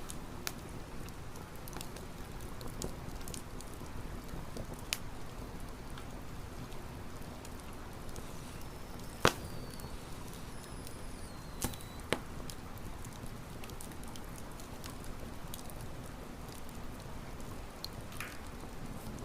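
Campfire burning, wood crackling with scattered sharp pops over a low steady hiss; the loudest pop comes about nine seconds in, with two more a few seconds later.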